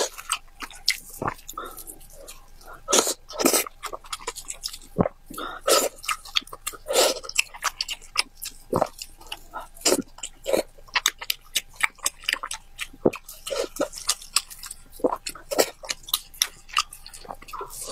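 Close-miked chewing of braised pig's head meat: wet, irregular smacks and clicks of mouth and lips, with now and then a sharper crunch.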